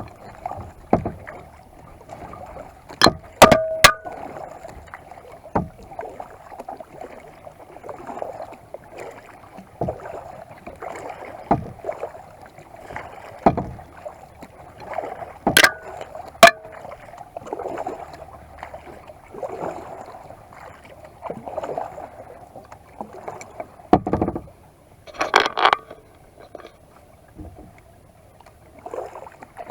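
Kayak paddling: the paddle blades dipping and pulling through the water in a steady rhythm of a stroke about every two seconds. A few sharp knocks come through, in pairs or triples, a few seconds in, about halfway and near the end.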